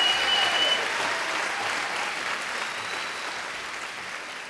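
Crowd of guests applauding and cheering, with a high steady whistle over the first second; the applause fades away.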